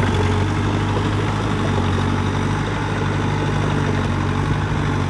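Heavy diesel engine of earthmoving machinery idling steadily: an even low hum with a constant pitch.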